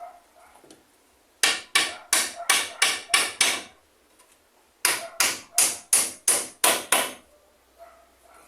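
Hammer driving nails: two runs of about seven sharp blows each, roughly three a second, with a pause of about a second between the runs.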